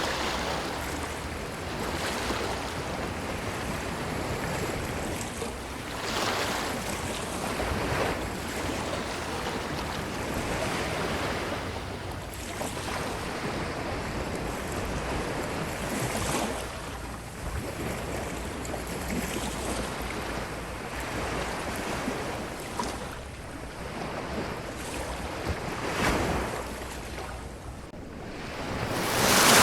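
Ocean waves washing onto a beach: a continuous surf wash that swells and falls back every few seconds, with a louder surge near the end.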